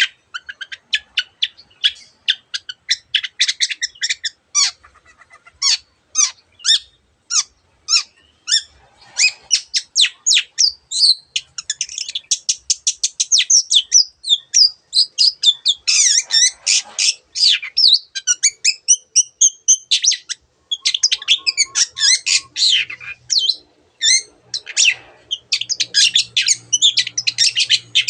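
Long-tailed shrike (cendet) singing a fast, chattering song of rapid high notes and short trills, mixing in imitations of other birds' calls.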